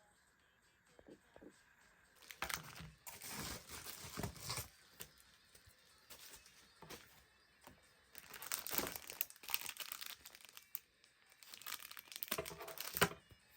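Packaging being crinkled and torn open by hand while unboxing a parcel, in three spells of rustling with short pauses between.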